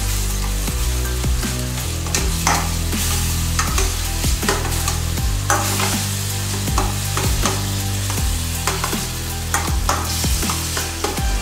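A spatula stirring and scraping chopped small onions around a stainless steel pot as they fry, with a steady sizzle and frequent clicks and taps of the spatula against the pot.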